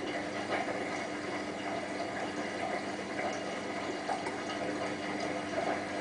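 Hotpoint WT960 washing machine's drain pump running with a steady hum as water drains out. This is the machine's drain-and-distribute routine, which it runs after being switched off and on during a spin.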